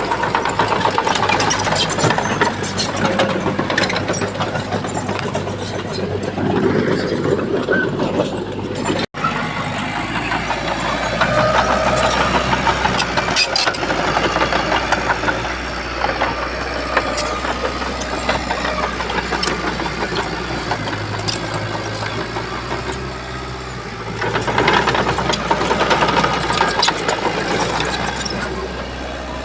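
Bulldozer diesel engine running under changing load, with metallic clatter throughout. The sound cuts out for an instant about nine seconds in.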